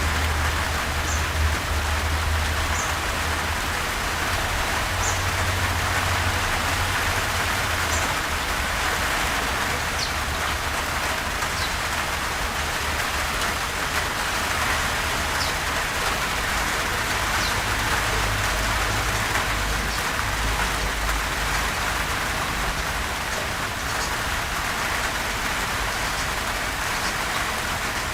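Steady, gentle rain falling on a surface, an even hiss over a low rumble, with occasional high ticks of single drops.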